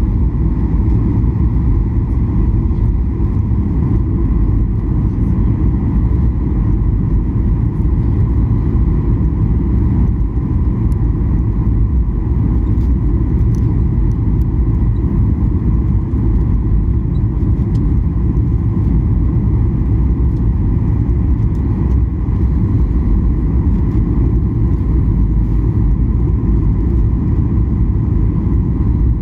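Cabin noise of a Boeing 737-800 on final approach: a steady rumble of its CFM56 engines and the airflow over the fuselage, heaviest in the low end, with a faint steady whine above it.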